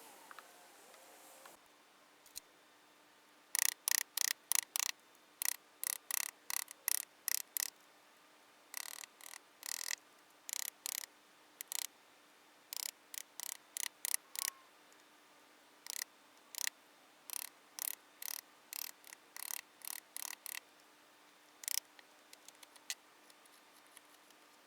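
Short scraping strokes in irregular runs, about two or three a second with brief pauses, over a faint steady hum.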